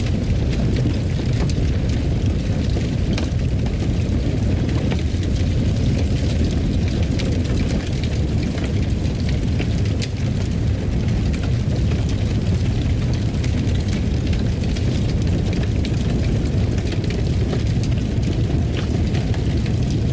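Fire burning in a fireplace: a steady low rumble with scattered crackles.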